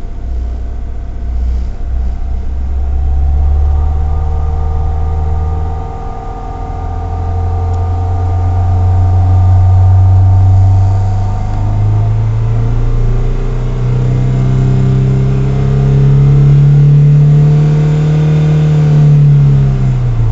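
Honda D16Y8 1.6-litre SOHC VTEC four-cylinder engine running, held steady for a few seconds, then revving slowly upward and dropping back near the end. It is sweeping the 2,200–3,500 rpm range where the owner hears a strange noise, and a steady higher tone runs over the engine sound through the first half.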